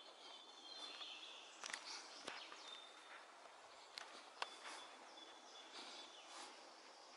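Faint pine-woodland ambience: distant birds giving short high calls over a soft hiss, with a few sharp clicks.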